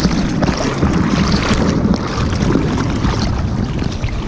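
Continuous water sloshing and splashing around a bodyboard-mounted GoPro in the surf, with wind noise on the microphone.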